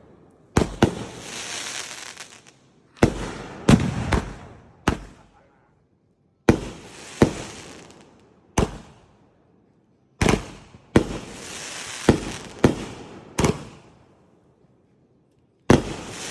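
Consumer fireworks going off: a string of sharp bangs, about a dozen in clusters with short pauses between, several of them trailed by a second or two of crackling hiss.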